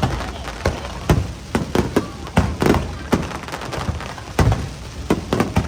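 Aerial fireworks bursting in a quick, irregular string of a dozen or so sharp bangs, the loudest about four and a half seconds in.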